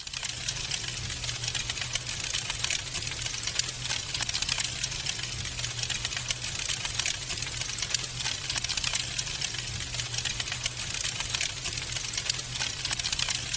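Wood fire crackling in a fireplace: dense, rapid crackles with a few louder single pops, over a low steady hum.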